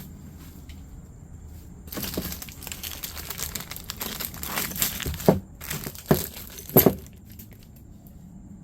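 Plastic packaging crinkling and crackling as it is handled, with three sharp cracks near the end.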